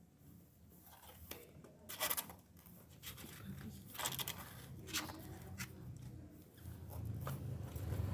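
Faint scattered rustling and scratching, with short louder scrapes about two, four and five seconds in and a low rumble building near the end; no meowing.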